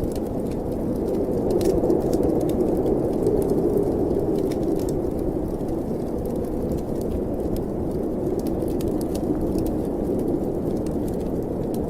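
Snowstorm wind blowing steadily with a gently rising and easing low rush, over a fireplace crackling with scattered sharp pops.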